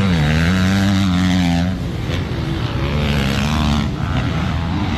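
Dirt-track racing engines running and revving, the pitch rising and falling, with a brief drop off the throttle just under two seconds in.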